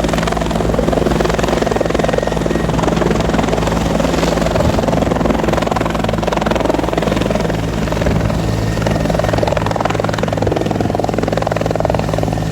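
Helicopter running loud and steady, its rotor and engine making an unbroken low hum.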